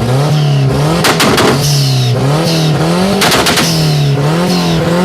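Car engine revving up and dropping back again and again, about once a second, with sharp cracks between some of the revs.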